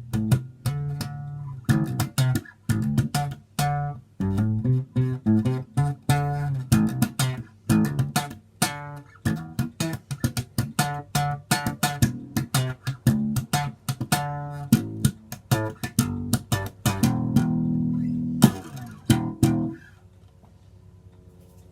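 Epiphone EB-3 electric bass played solo: a run of plucked notes and short riffs, a held note near the end with a quick slide down, then the playing stops, leaving a faint steady hum.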